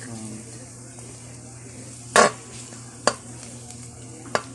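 Beef loaf and egg frying in a pan with a faint sizzle, while a cooking utensil knocks against the pan three times, the first knock the loudest.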